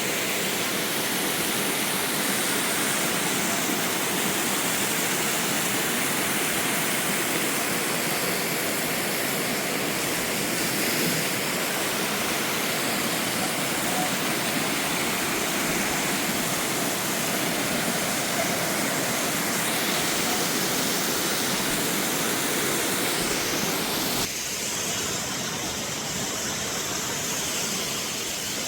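Waterfall: a steady, dense rush of falling water. About 24 seconds in, the sound thins out and drops slightly in level.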